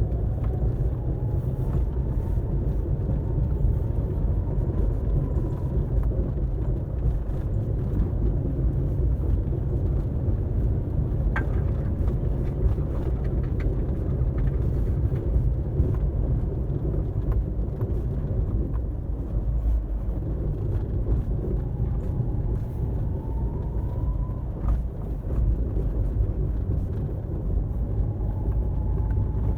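Daihatsu Hijet kei car driving: a steady low engine and road rumble, with a faint whine that rises in pitch three times as it picks up speed.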